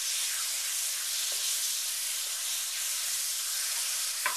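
Marinated chicken strips sizzling steadily in a hot wok, an even frying hiss. A single sharp knock comes near the end.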